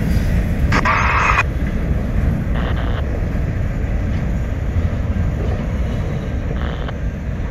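Freight train cars rolling past: a steady low rumble of steel wheels on the rails. Brief higher-pitched bursts come about a second in, near three seconds and near seven seconds.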